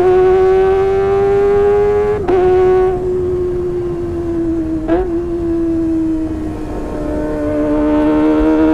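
Kawasaki ZX-25R's 250 cc inline-four, breathing through a Sportisi Motorsport SRX aftermarket exhaust, running at high revs with a high-pitched howl. The pitch holds nearly steady, with brief dips and recoveries twice, about 2 and 5 seconds in.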